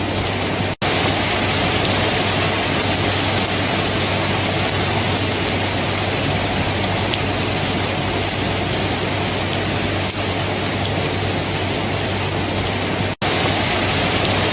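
Steady rain, an even hiss, broken by two very short dropouts: one about a second in and one near the end.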